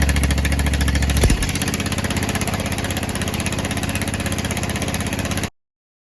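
Pressure washer's gas engine running just after being started, a steady pulsing note that shifts a little over a second in. The sound cuts off abruptly near the end.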